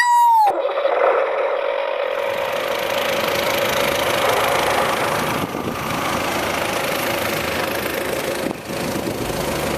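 A small motor driving a DIY mini chaff cutter model, running steadily with a whine. It is preceded by a brief whistle-like tone that drops in pitch and stops about half a second in.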